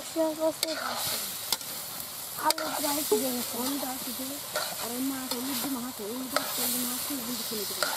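Vegetables and fish frying and sizzling in a wok over a wood fire, stirred with a metal ladle, with a few sharp clicks scattered through.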